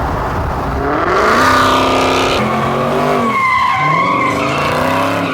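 A car's engine revving hard while its tyres squeal in a slide. The engine pitch climbs steeply about a second in, holds, sags briefly past the middle and climbs again.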